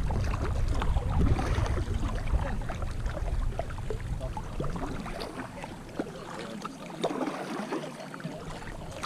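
Kayak paddling: paddle blades dipping and splashing in the water, with wind buffeting the microphone as a low rumble that dies away about two-thirds of the way through.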